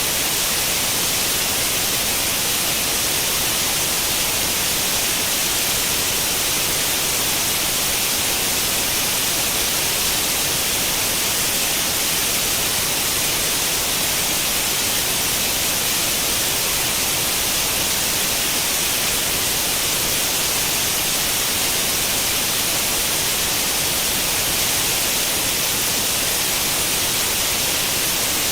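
Steady white noise like the static of an old CRT television tuned to no channel: an even hiss, brightest in the high frequencies, unchanging throughout.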